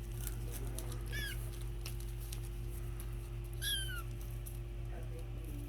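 Kitten mewing: two short, high, falling mews, about a second in and again near four seconds, over faint scattered clicks.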